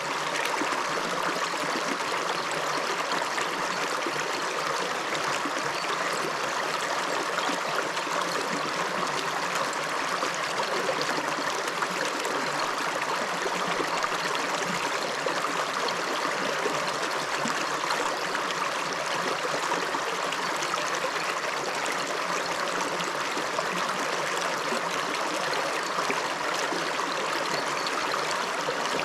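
River water running over stones in a shallow stream, a steady rushing and burbling.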